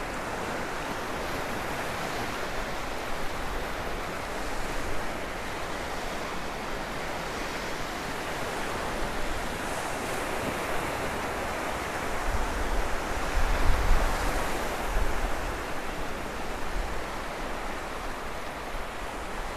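Gulf of Mexico surf washing onto the beach, a steady hiss of small waves. About twelve seconds in, a few seconds of wind rumble on the microphone rise over it.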